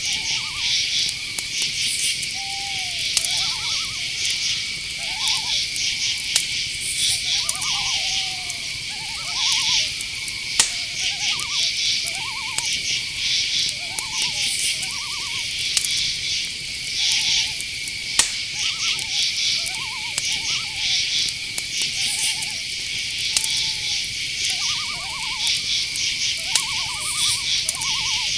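Night-forest chorus: crickets chirring with a steady high tone and rhythmic pulsing chirps, over short owl hoots that repeat every second or two, some gliding down in pitch and some quavering.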